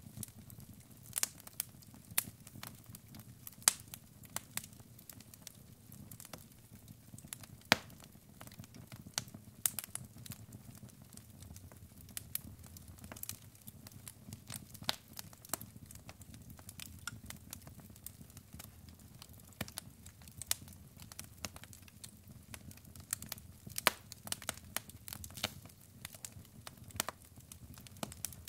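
Wood fire of burning logs crackling, with irregular sharp pops, a few louder snaps among them, over a low steady rumble of flame.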